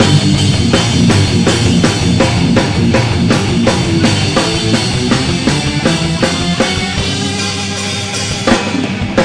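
Live rock band playing an instrumental passage: distorted electric guitars and bass over a drum kit keeping a steady beat, the drum hits thinning out after about seven seconds.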